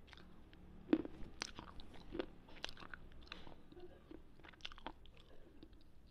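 Slate pencil being chewed close to the microphone: irregular crisp crunches as the chalky stick breaks between the teeth, the sharpest about a second in.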